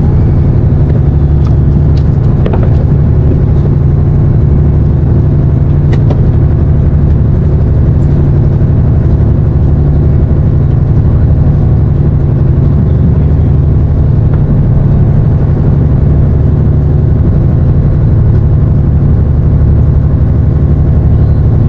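Engine on a fishing boat running at a steady speed, a constant low drone with a few faint clicks.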